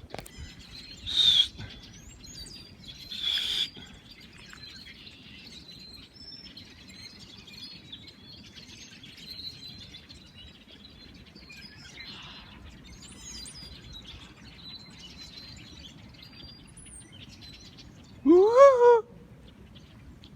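Several birds chirping and singing, with short high chirps throughout. Two loud harsh calls come about a second in and about three and a half seconds in, and near the end there is one loud call that rises and falls in pitch.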